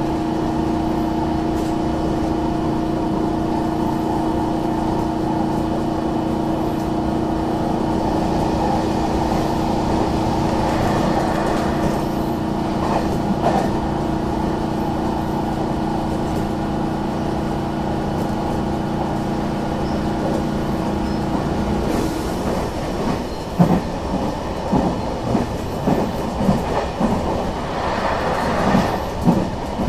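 A JR Fukuhoku Yutaka Line electric commuter train running, heard from inside the passenger car. A steady hum carries through most of it and stops about two-thirds of the way in. After that the wheels clack over rail joints many times, roughly once a second.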